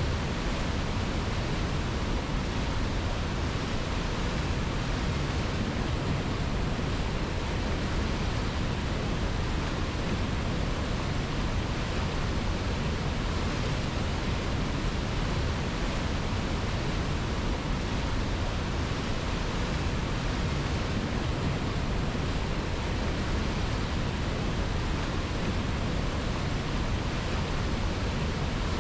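River water flowing: a steady, unchanging rush of water with no breaks or distinct splashes.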